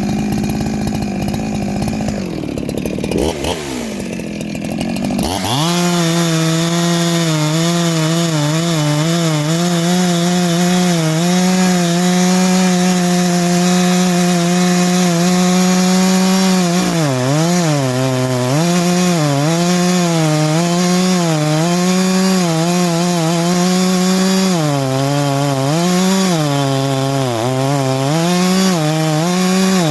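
Ported Farmertec G372XT two-stroke chainsaw cutting through dry, old wood at full throttle. Its pitch dips and climbs a few seconds in, then holds high. In the second half the revs sag and recover repeatedly as the chain bites into the wood.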